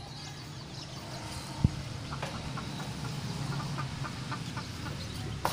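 Native village chickens (ayam kampung) clucking in a run of short calls, with one sharp knock about a second and a half in, over a steady low hum.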